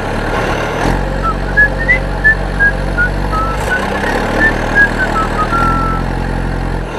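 Small engine running steadily, with a string of short high notes, about three a second, sounding over it for several seconds.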